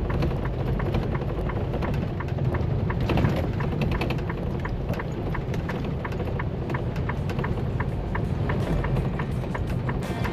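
Semi-truck cab interior: steady engine and road rumble, with the turn signal clicking about three times a second.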